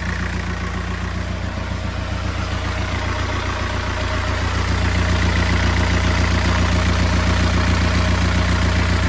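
Sailing yacht's inboard diesel engine idling steadily, purring "like a cat", with a newly fitted alternator. It grows slightly louder about four seconds in.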